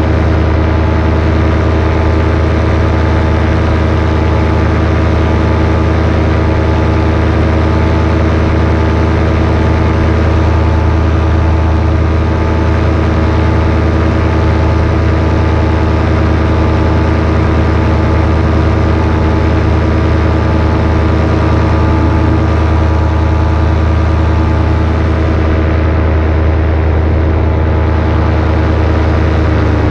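Paramotor engine and propeller running at steady cruise throttle: a loud, continuous drone with a strong low hum that holds one pitch throughout.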